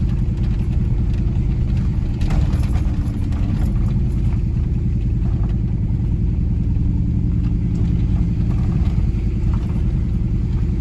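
Pickup truck's engine running steadily under load while climbing a hill, with a continuous low rumble of engine and road noise, heard from inside the cab with the window open.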